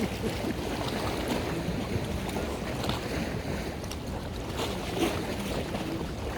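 A boat running on open water: steady engine and water noise, with wind buffeting the microphone.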